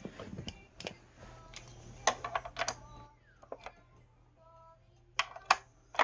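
Light clicks and knocks of hard objects, such as containers and packages, being handled and set down, a few ringing briefly. They cluster about two seconds in and again near the end.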